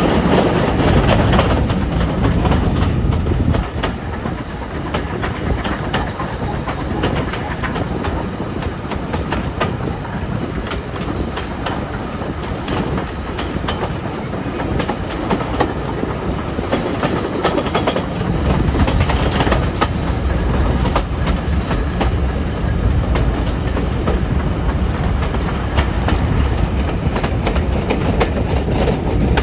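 Steam-hauled passenger train running along the line, with a steady rolling rumble and repeated clicks of the wheels over the rail joints. The low rumble grows heavier about two-thirds of the way through.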